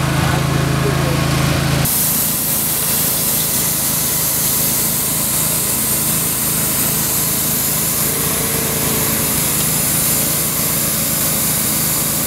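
A small engine-driven machine running steadily. The sound changes abruptly about two seconds in, to a fast, even low chugging with a hiss over it.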